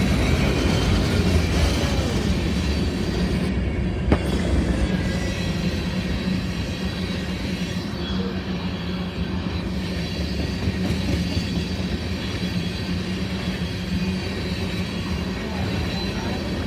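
CSX freight train rolling steadily past: a continuous low rumble of wheels on rail with faint, thin wheel squeal and a single sharp clack about four seconds in.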